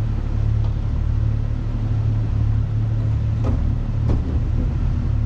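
Off-road vehicle's engine running at low speed, a steady low rumble, with two brief knocks about three and a half and four seconds in.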